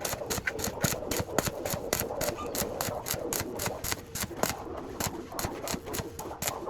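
Rapid, even scraping strokes, about six a second, typical of a hand tool such as a file or sanding block worked back and forth on a part being restored.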